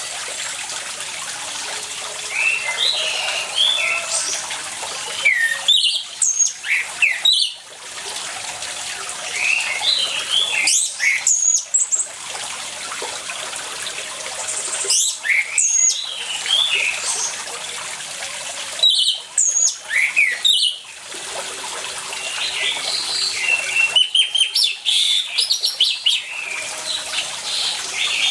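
Orange-headed thrush singing, bursts of quick whistled and chirping phrases every few seconds, over a steady sound of running water.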